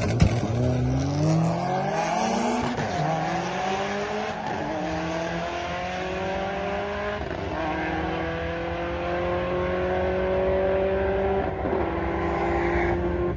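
Drag car's engine at full throttle down the strip, its pitch climbing steadily with about four gear changes that drop the revs, each shift coming later than the last.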